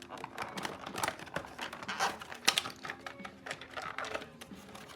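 Rapid, irregular clicks and taps from die-cast toy cars being handled and set down.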